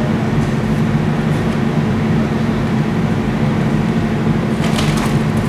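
Steady low mechanical hum, with a brief high hiss about five seconds in.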